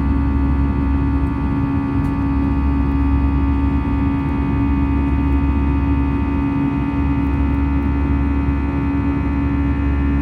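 Airbus A320 engines and airflow heard from inside the passenger cabin: a steady drone with a deep rumble, a strong low hum and a cluster of steady whining tones above it.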